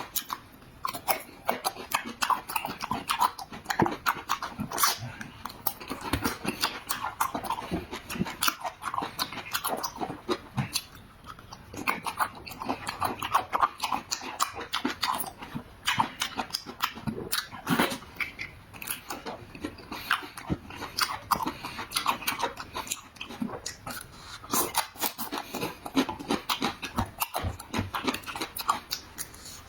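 Close-up chewing and lip-smacking while eating fried spare ribs: a steady run of irregular wet clicks and smacks.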